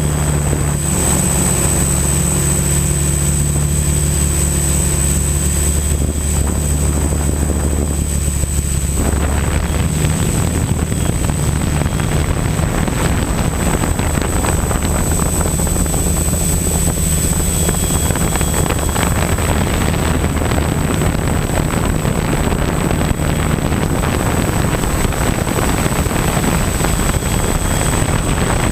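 XAircraft X650 Pro V4 quadcopter's electric motors and propellers droning steadily in flight, with a thin high whine over the hum. About a third of the way in, the steady low tones give way to a rougher, noisier rush.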